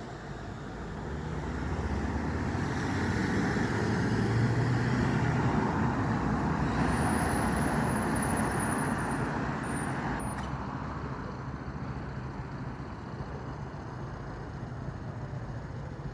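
Street traffic with a heavy diesel vehicle's engine rumble growing louder, passing about five seconds in, then fading away under steady road noise.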